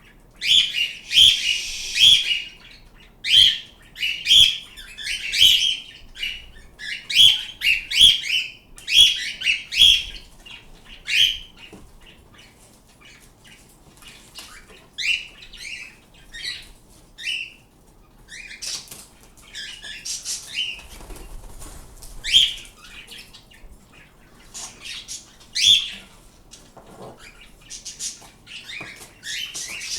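Pet birds calling with short, sharp, high chirps, in quick runs through the first ten seconds or so and more scattered after.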